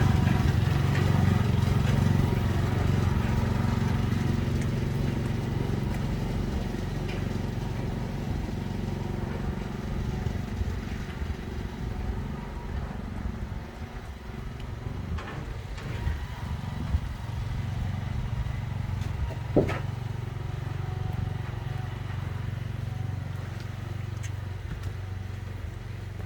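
A truck engine running steadily at a low, even pitch, easing off slightly over time, with one sharp knock about twenty seconds in.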